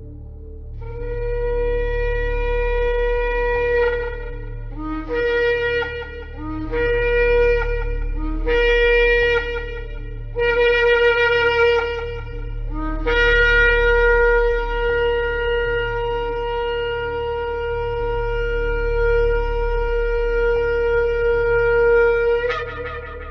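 Shofar (ram's horn) blowing: one long blast, then four shorter blasts that each break upward from a lower note, then a long held blast that ends with a sharp upward leap in pitch. A steady low hum lies underneath.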